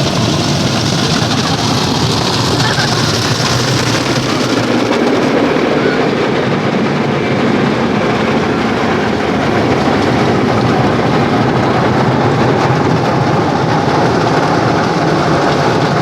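Car wash water spray and equipment running with a steady, loud rush, turning duller about five seconds in.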